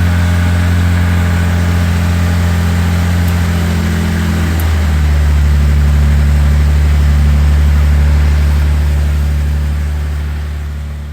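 Jaguar E-Type engine idling steadily on a cold start after sitting unused all winter; about halfway through the idle steps down slightly, and the sound fades out near the end.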